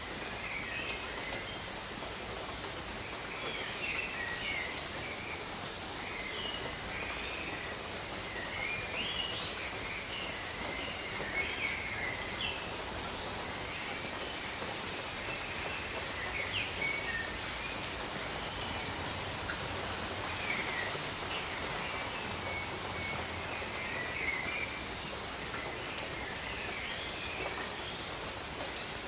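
Steady light rain falling on leaves, with many small birds chirping and twittering throughout.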